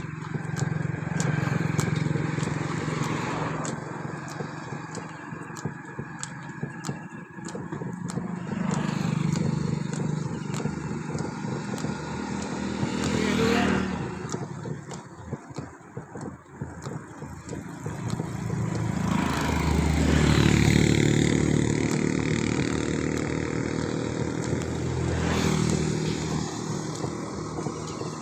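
Motor vehicle engines running, swelling louder and fading away several times, loudest about two-thirds of the way through.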